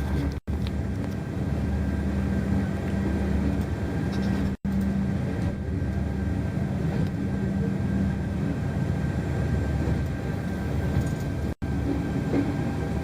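Passenger train running, heard from inside a carriage: a steady low rumble of the moving train with a low hum that fades about two-thirds through. The sound cuts out for an instant three times.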